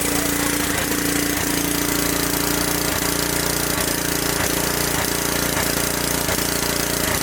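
Small gasoline generator engine running steadily at constant speed, not yet under electrical load.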